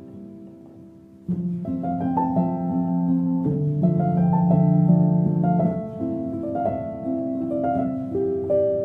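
Background music: a gentle instrumental track of plucked, harp-like strings, quiet at first and fuller from about a second in.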